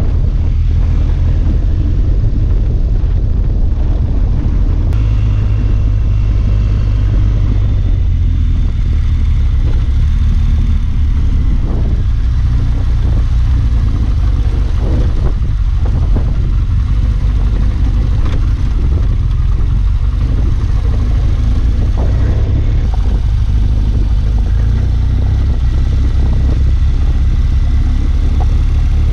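Dual-sport motorcycle engine running steadily under way on an unpaved mountain road, with a low rumble and a few brief knocks from the rough surface.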